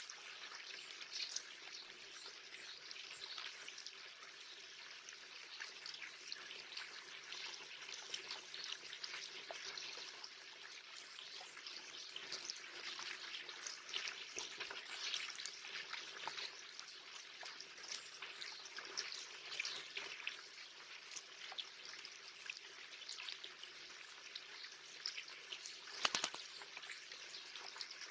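Steady light rain pattering and dripping close to the microphone, a dense run of small drop ticks, with a brief louder cluster of taps near the end.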